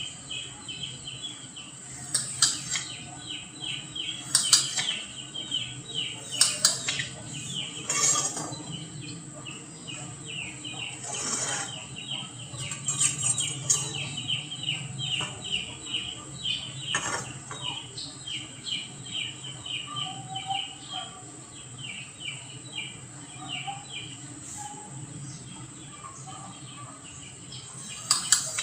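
Sharp taps or clicks now and then, about seven in all, over a fast run of high, short chirping pulses and a steady high whine.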